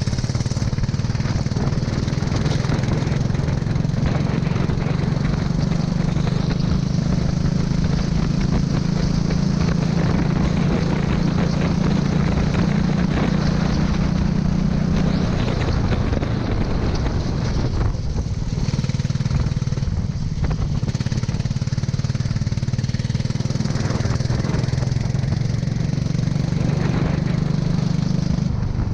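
Kart engine running at speed. It eases off about halfway through and picks up again towards the end.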